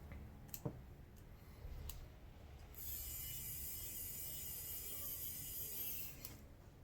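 Small screws being driven back into a Samsung Galaxy A50's frame during reassembly: a few light clicks of small parts, then about three seconds in, a steady high-pitched mechanical whir that lasts about three seconds and stops.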